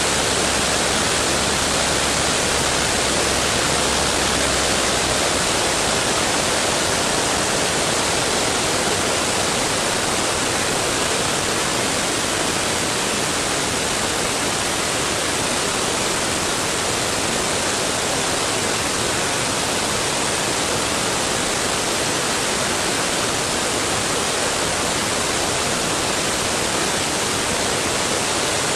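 Steady, loud rush of airflow buffeting a tail-mounted camera on a vintage Cessna taildragger in flight.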